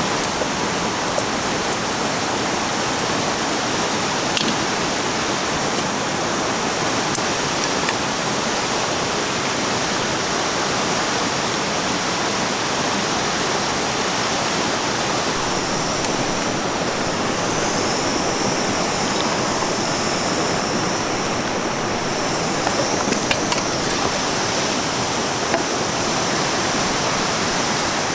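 A river running steadily, a constant rushing of water, with a few faint ticks now and then.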